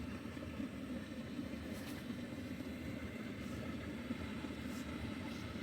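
Diesel heater running with a steady low drone, and a few faint light ticks, like sleet or ice pellets, on the tent at intervals.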